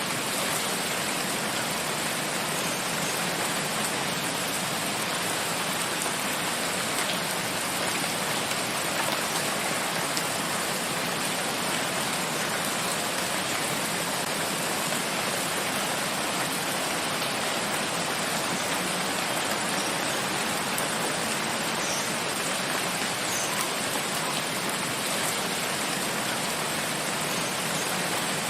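Steady rain falling in a forest, an even hiss without pause.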